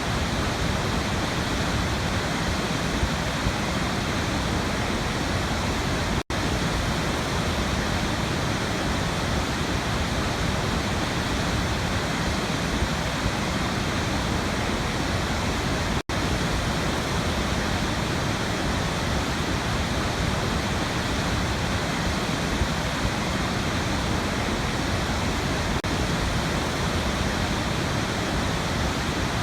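Waterfall rushing steadily, a dense even roar of falling water, cut by two split-second dropouts about six and sixteen seconds in.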